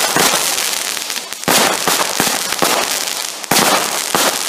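Crackling fireworks going off: a fresh burst of dense crackling about every two seconds, each one sudden and then fading away.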